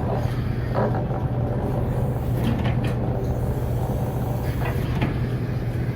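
Fishing boat's engine running with a steady low drone, with a few faint knocks about halfway through and again near the end.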